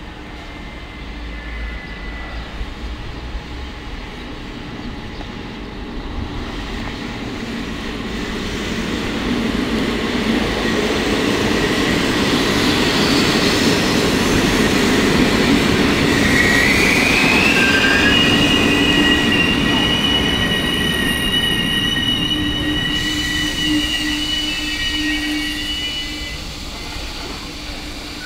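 Regional electric train running into the station, its rumble growing louder toward the middle and fading again near the end. From a little past halfway a high wheel squeal rises briefly in pitch and then holds steady for several seconds as the train slows to a stop.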